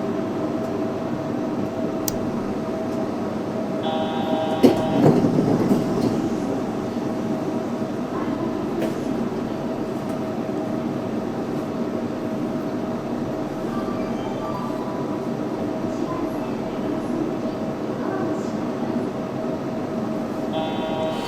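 Yurikamome 7300-series train standing at a station, its equipment giving a steady hum with a steady tone. A door chime sounds about four seconds in, followed at once by a thud as the doors open, and the chime sounds again near the end as the doors are about to close.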